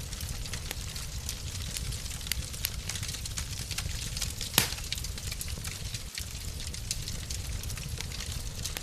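Wood fire crackling in a fireplace: a steady hiss with many small snaps and one louder pop about four and a half seconds in, over a low steady rumble.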